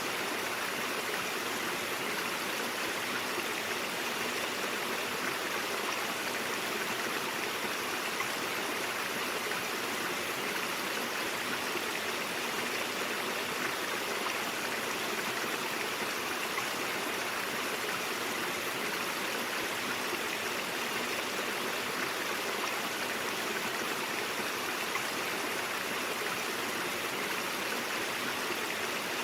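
Stream water flowing over rocks, a steady, even rushing and babbling that never changes.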